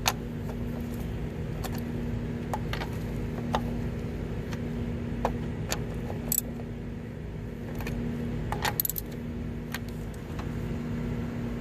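Scattered metallic clinks and light rattles of tools and parts being handled during the final reassembly of the engine, over a steady low hum.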